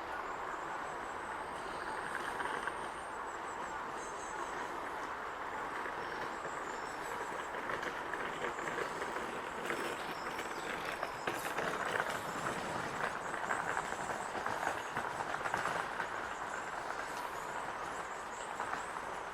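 Great spotted woodpecker nestling's continuous, raspy chattering begging call from the nest hole as it waits to be fed, getting louder in the middle.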